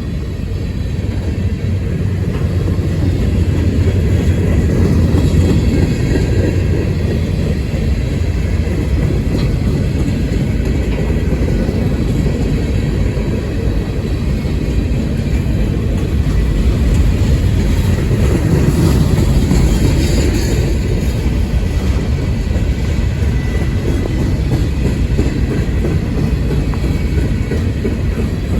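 Cars of a long CSX manifest freight train rolling past: a steady, loud low rumble of steel wheels on rail.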